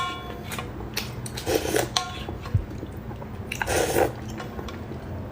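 A person eating noodles close to the microphone. A utensil clinks against a bowl with a short ring right at the start, then come chewing and mouth sounds, loudest about a second and a half in and again about four seconds in.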